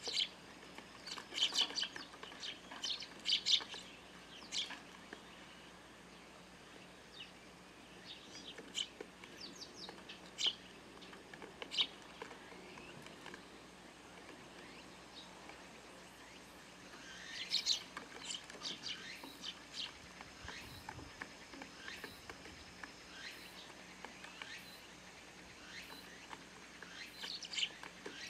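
Eurasian tree sparrows chirping at a feeder: short, high chirps in scattered clusters, busiest near the start and again about two-thirds of the way through.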